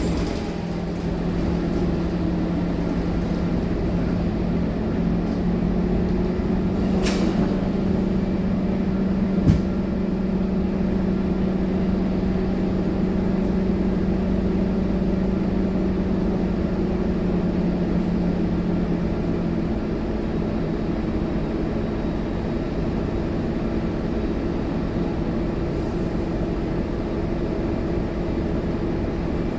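Scania K230UB city bus's diesel engine running with a steady drone. There is a short hiss about seven seconds in and a sharp click about nine and a half seconds in.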